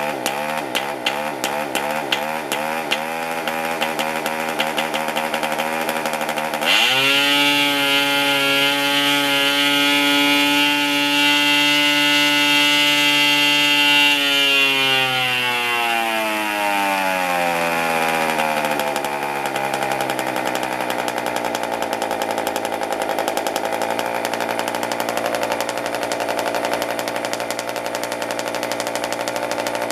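PAW 40 TBR model diesel engine running. It fires unevenly at low speed at first, revs up sharply about a fifth of the way in and holds high revs, then winds down smoothly to a steady low-speed idle for the second half.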